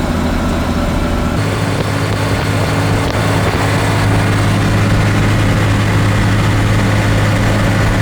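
Heavy military truck engine running steadily at a low, even speed. The sound changes abruptly about a second and a half in.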